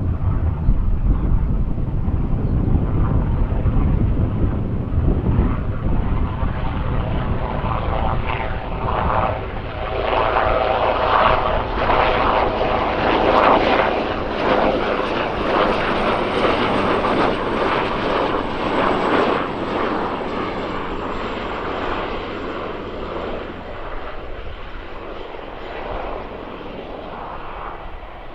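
AgustaWestland AW139 twin-turbine helicopter passing by: deep rotor and engine rumble that swells to a peak about midway and then fades, with a faint high turbine whine that slowly falls in pitch.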